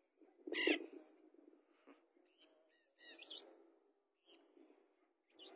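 Birds calling: a few short, high, sharp calls, one about half a second in, a quick run of chirps around three seconds in, and another near the end.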